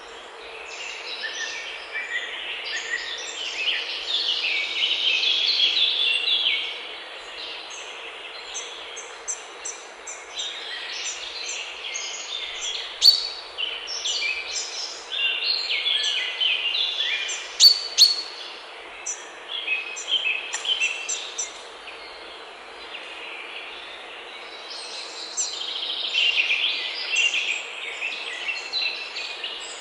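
Wild songbirds singing in a forest: quick, high chirping notes that come in dense bursts and then thin out, over a steady hiss of outdoor ambience.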